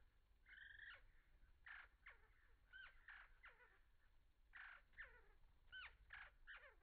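Birds calling faintly and repeatedly: quick downward-sliding chirps alternating with short harsh, rasping calls.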